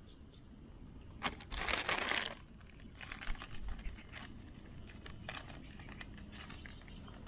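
A short burst of crinkling, lasting under a second, about a second and a half in, followed by scattered light clicks and taps.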